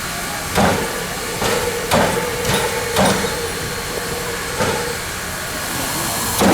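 Chesapeake & Ohio 1309, a 2-6-6-2 Mallet steam locomotive, working slowly: sharp exhaust beats come at uneven spacing, about one a second, over a steady hiss of steam.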